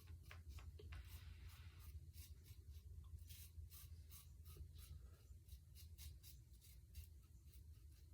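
Double-edge safety razor scraping through lathered stubble in short, faint, repeated strokes.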